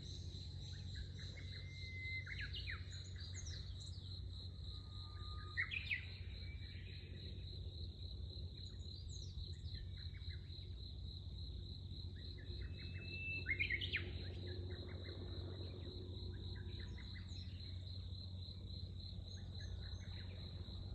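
Insects trilling without a break in one high, finely pulsing note, with birds chirping and calling over them. Two bird calls stand out louder, about six seconds in and again about fourteen seconds in.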